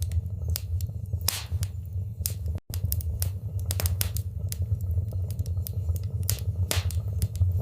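Wood fire burning in a fireplace: frequent sharp crackles and pops over a steady low rumble. The sound cuts out for a split second about two and a half seconds in.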